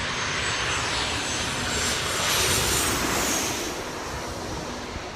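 Airliner passing low overhead on approach to land, its engine noise swelling to a peak about two and a half seconds in and then fading, with a high whine that drops slightly in pitch as it goes by.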